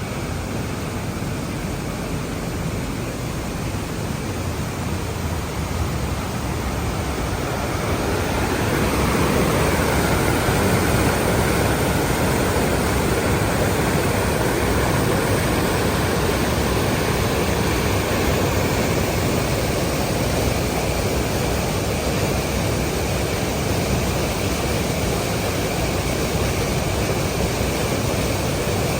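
Waterfall rushing: a steady, loud wash of falling water that swells about eight seconds in, then holds.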